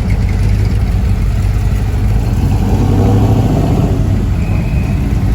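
A car engine running close by, swelling up briefly about three seconds in.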